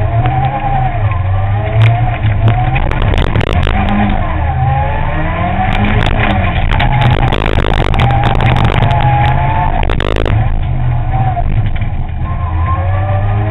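Ford Fiesta ST N3 rally car's four-cylinder engine heard from inside the car, driven hard with repeated climbs and drops in revs through gear changes. Through the middle there is a stretch of dense clattering and rattling noise.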